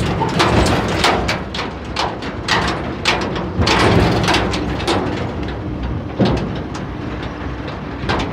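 Tractor engine running steadily, with many irregular knocks and rattles over it.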